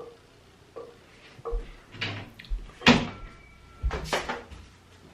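Household handling noises: a series of light knocks and clicks, with one sharp clack about three seconds in and two more knocks about a second later, like items and a cupboard door being moved.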